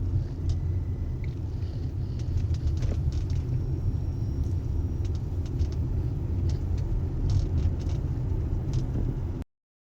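Steady low rumble of a car driving, the road and engine noise of a moving vehicle, with a few faint clicks over it; it cuts off suddenly near the end.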